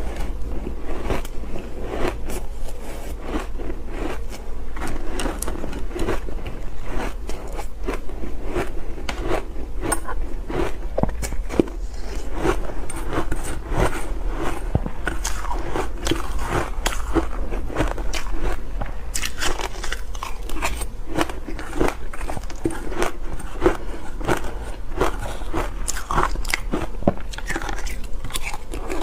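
Ice being bitten and chewed close to the microphone: a dense, continuous run of sharp crunches and crackles.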